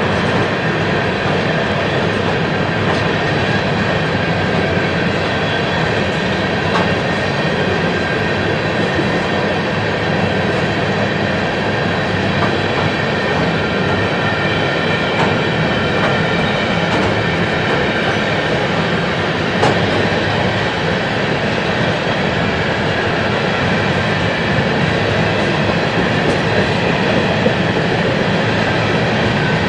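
Freight train rolling past: a steady rumble of wheels on rails that keeps up throughout, with a few sharp clicks and a faint high steady whine.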